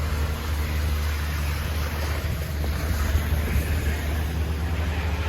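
A car engine running steadily as the car struggles for grip on a snow-covered, slippery road, mixed with a low rumble and hiss of wind on the microphone.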